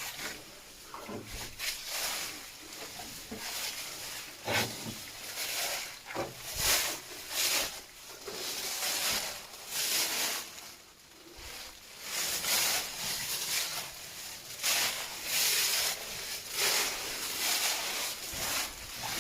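Footsteps squelching and swishing through mud and wet leaves, an uneven run of steps about one a second.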